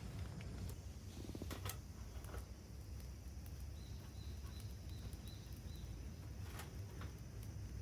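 Outdoor ambience with a steady low rumble and a few scattered clicks; midway a bird gives a quick series of about seven short, high notes, roughly three a second.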